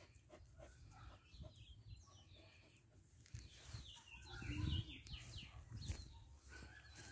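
Faint bird chirps: short, quick high notes scattered through, with a low rumble about four and a half seconds in.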